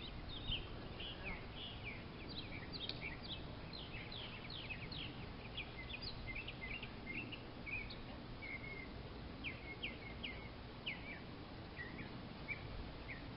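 Small birds chirping: many short, quick chirps scattered throughout, over faint steady outdoor background noise.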